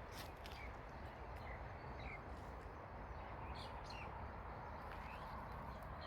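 Steady outdoor background noise with a few short, faint bird chirps scattered through it.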